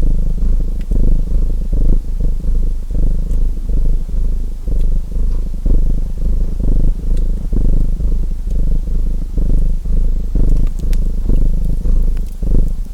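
Domestic cat purring close up, a steady low rumbling purr that pulses without a break, with a few faint crackles from a fireplace, more of them near the end.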